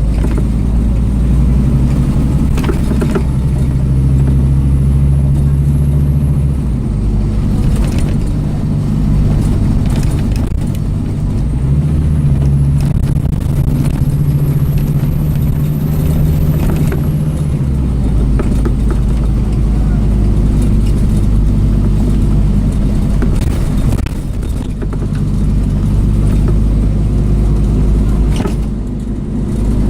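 Scania OmniCity single-deck bus's diesel engine pulling away and running through its gears, with a high whine that climbs and holds twice as the bus gathers speed. Rattles and clicks are heard throughout.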